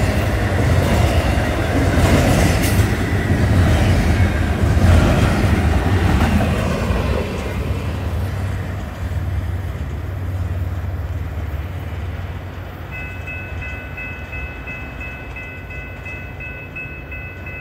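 Florida East Coast intermodal freight train's last cars rumbling and clacking over the crossing, then fading as the train moves away. From about two-thirds of the way in, a steady, faint chord of high tones carries from the distance, typical of the train's horn sounding for the next crossing.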